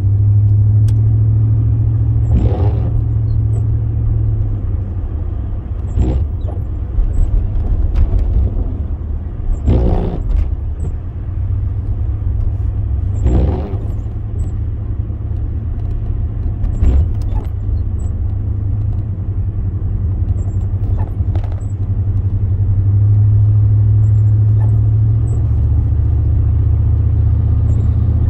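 Car interior while driving: a steady low rumble of engine and road noise, with about six dull knocks spaced a few seconds apart.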